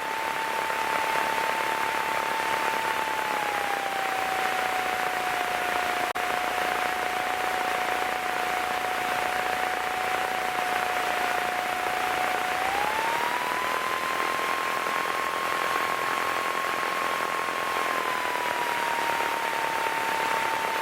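Piper PA-28 Cherokee engine and propeller heard inside the cabin while taxiing: a steady hiss with one humming tone. The tone dips lower a few seconds in, rises about two-thirds of the way through, then eases back down as the engine speed changes.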